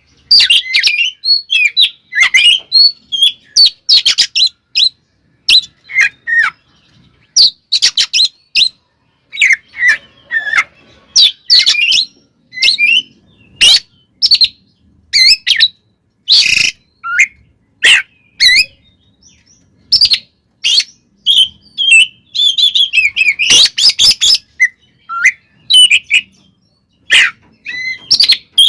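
Oriental magpie-robin (kacer) singing loudly in rapid, varied phrases of sharp whistles, trills and harsh chirps, broken by short pauses.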